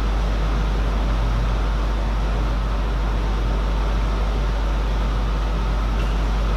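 Steady low hum with an even hiss over it, unchanging throughout, with no clear ball strikes.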